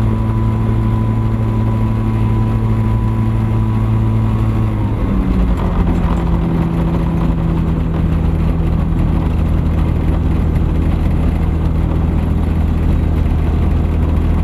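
Thruster ultralight aircraft engine running steadily, then its note drops about five seconds in as it is throttled back, settling at a lower, steady speed.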